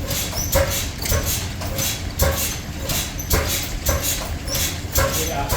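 Stationary steam engine running steadily and driving workshop machinery, with a regular beat about twice a second over a constant low rumble.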